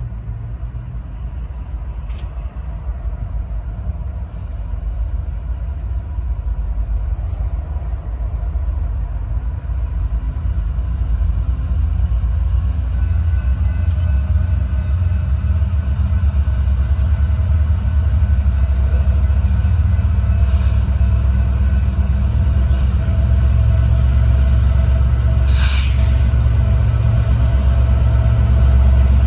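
Diesel locomotives of an approaching freight train, their engines running with a deep rumble that grows steadily louder. A couple of brief sharp noises sound near the end.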